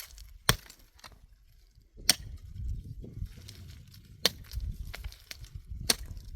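Four heavy strikes of a hand tool, one about every second and a half to two seconds, each a sharp crack, with low rustling and rumbling between.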